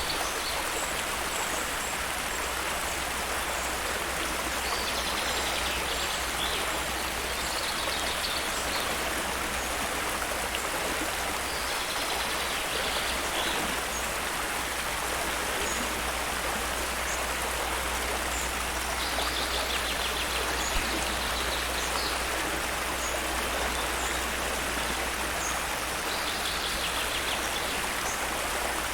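Steady rush of flowing water, an even hiss with a low rumble beneath. Faint short high trills and chirps come and go every few seconds over it.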